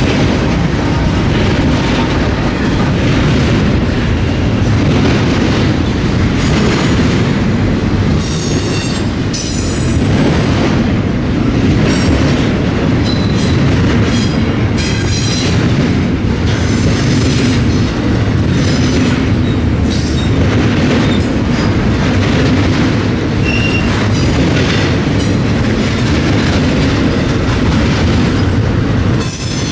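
Freight train cars rolling past at close range with a steady heavy rumble. The wheels clack over the rail joints, with short high-pitched wheel squeals now and then.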